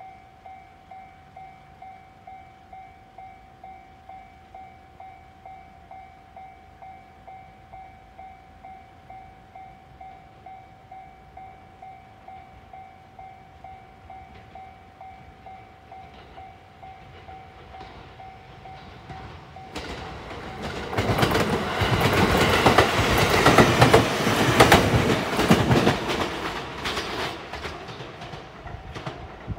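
Japanese railway level-crossing bell ringing steadily in an even ding-ding rhythm. About twenty seconds in, a JR Marine Liner electric train passes over the crossing, loud, with its wheels clacking over the rail joints for several seconds, then fading as it goes away.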